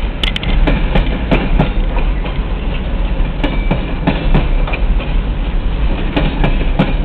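Coal train's hopper cars rolling past, wheels clacking over the rail joints: a steady low rumble broken by irregular sharp clacks.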